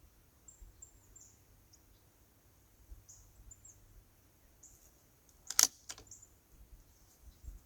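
A single .22 LR rifle shot firing SK Pistol Match ammunition, a sharp crack a little past halfway through, with a weaker crack just after it. Birds chirp in the background.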